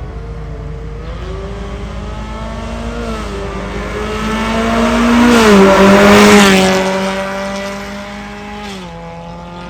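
Hyundai Venue's 1.6-litre four-cylinder engine through an MS-R valved cat-back exhaust, pulling with a steadily rising note that swells to its loudest about five to six seconds in, then eases off and drops in pitch near the end.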